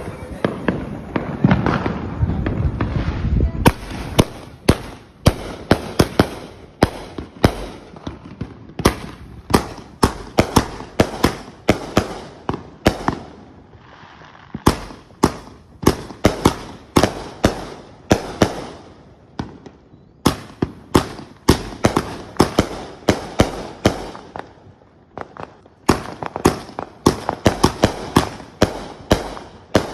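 Fireworks going off: a few seconds of dense rumbling crackle, then a long, irregular series of sharp bangs, often two or three a second, with brief lulls between volleys.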